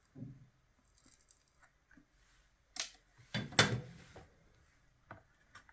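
Tools and hard objects being handled on a workbench: scattered small clicks and clunks, the loudest a little before halfway and again just after.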